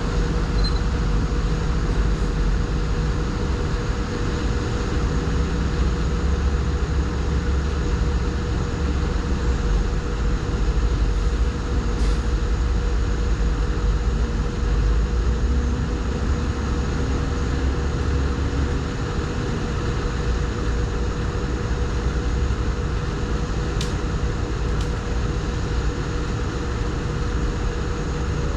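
Crawler dozer's diesel engine running steadily under work, a deep rumble with a steady whining tone over it; the lowest rumble eases a little partway through, and there are a few sharp clicks.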